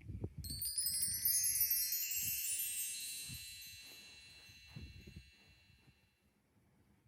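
Chimes struck in one quick sweep: many high ringing tones starting together about half a second in and fading away over about five seconds, with soft low knocks underneath.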